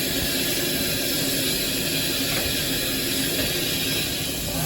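Steam locomotive running, heard from inside its cab: a steady mechanical rattle and clatter with a hiss of steam.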